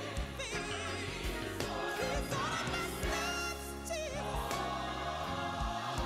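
Gospel choir song playing, with voices singing with vibrato over bass and drums.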